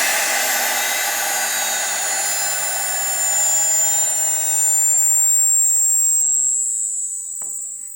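CNC router spindle running at high speed, a steady high-pitched whine over a rushing noise, dropping away near the end.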